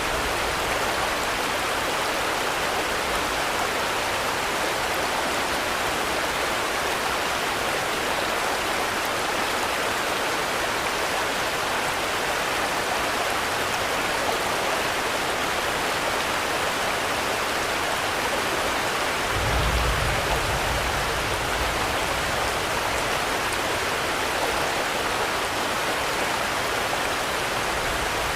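Steady, dense rainfall making an even hiss. About two-thirds of the way through, a low rumble swells up for a few seconds.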